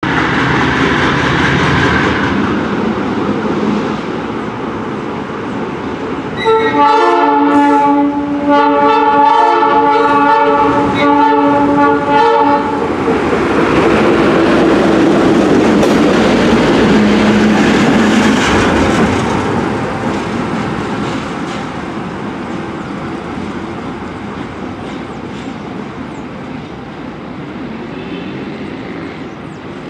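GE C30 diesel-electric locomotive pulling away: its engine runs loud under load with rail noise, and its chime horn sounds three blasts, the last two longer, about a quarter of the way in. The running noise grows after the horn, then slowly fades as the train moves off.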